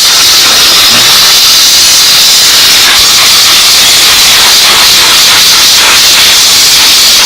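Steam cleaner nozzle blasting a loud, steady hiss of hot steam onto a dirty engine part, loosening the dirt.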